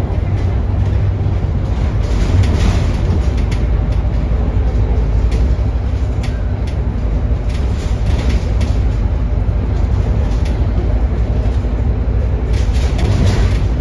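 Steady low rumble of a moving vehicle, with scattered clicks and rattles.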